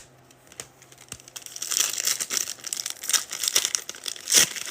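A foil trading-card pack wrapper being torn open and crinkled: a dense crackle that builds from about a second and a half in and is loudest near the end.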